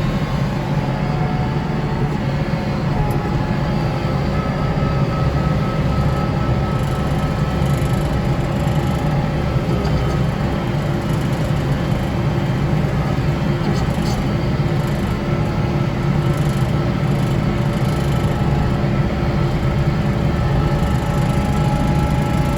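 Kubota diesel tractor running steadily with its front-mounted snow blower working: a constant low drone with faint steady whining tones above it.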